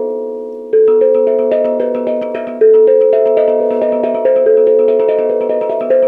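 Instrumental music on a ringing, pitched instrument struck in quick, even repeated strokes, several a second. A melody steps between sustained notes that slowly die away, with stronger attacks about a second in, near the middle and near the end.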